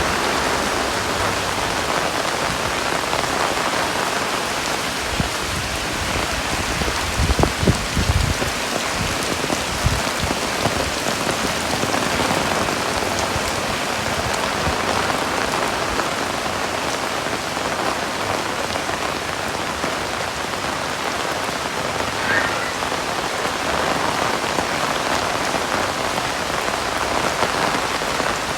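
Heavy rain falling steadily, with a few low thumps about seven to eight seconds in.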